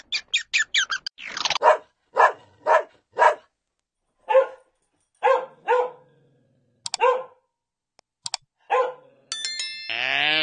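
A dog barking repeatedly: a quick run of short yaps, then single barks about every half second that grow sparser. Near the end comes a brief chime, then a bleat begins.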